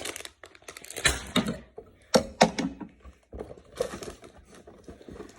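Sealed plastic bags of Lego pieces handled and put down, the loose bricks inside rattling: a string of short clattery knocks with light plastic rustling between.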